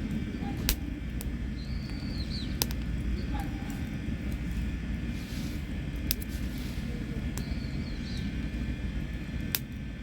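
Pine fatwood campfire burning, with four sharp pops of the wood over a steady low rumble. A small bird chirps twice in the background.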